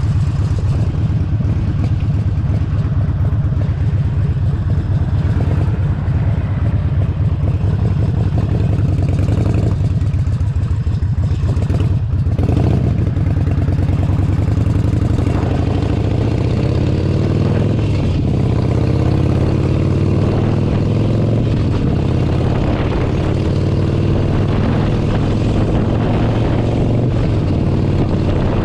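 Harley-Davidson Forty-Eight Sportster 1200's air-cooled V-twin running under way, heard from the saddle. Its note dips briefly just before the middle, then rises in two climbs with a break between them: the bike accelerating and shifting up.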